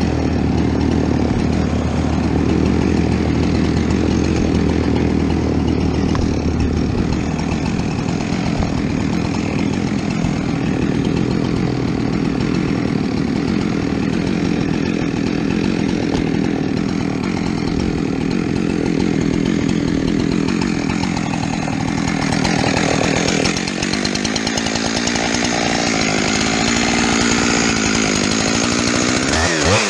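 Chainsaw running continuously under load, cutting into fir wood, its engine note shifting a few times as the cut goes on. The chain is dull, which the uploader admits.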